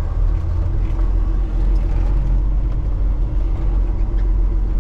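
Semi-truck's diesel engine running at low speed, a steady low rumble.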